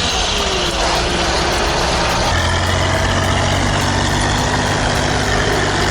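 Heavy tractor's diesel engine running; about two seconds in, a steady low drone sets in and holds.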